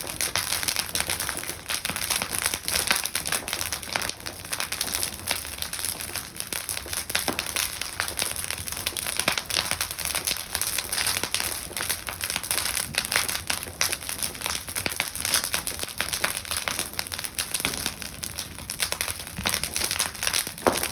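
Bonfire burning, with a steady dense crackle of small pops and snaps.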